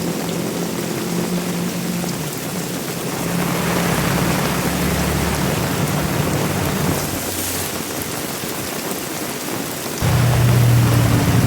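Heavy rain falling steadily, with the low hum of an engine underneath that suddenly gets much louder about ten seconds in.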